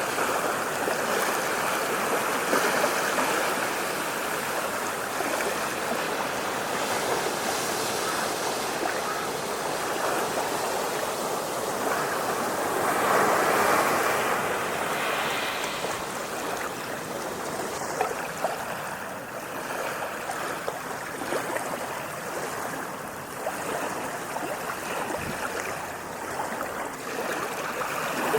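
Ocean waves washing onto the shore, a continuous rushing surf that swells and ebbs, loudest about halfway through.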